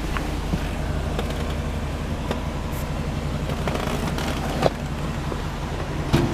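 GMC Sierra 3500HD dump truck's engine idling steadily, with a couple of sharp clicks near the end.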